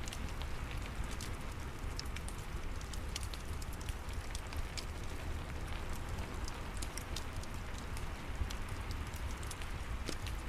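Steady rain with a low rumble, mixed with a fireplace crackling: many small sharp pops scattered throughout.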